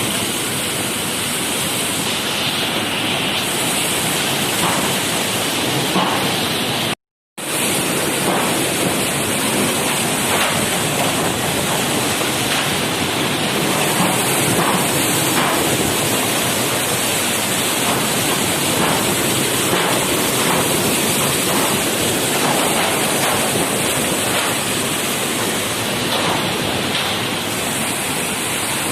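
Steady rushing noise of storm-driven water and wind during a tropical storm. It drops out for a moment about seven seconds in.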